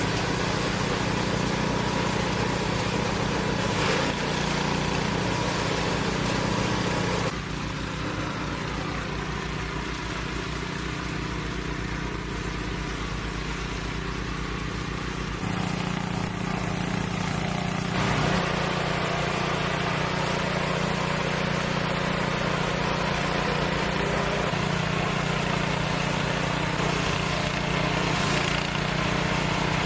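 A motor engine running steadily, its note dropping and quietening about seven seconds in, then picking up again around fifteen to eighteen seconds in.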